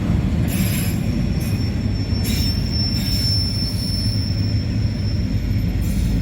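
A slow-moving train rolling past with a steady low rumble, its wheels squealing in one high, held note that sets in about a second in and fades near the end.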